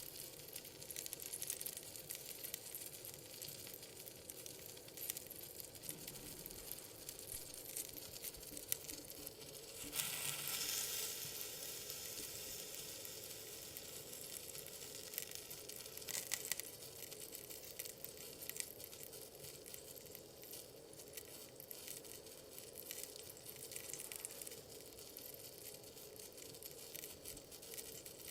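Yakitori chicken skewers sizzling on a grill over a burning wood fire in a fireplace: a dense, steady crackle, swelling louder for a moment about ten seconds in.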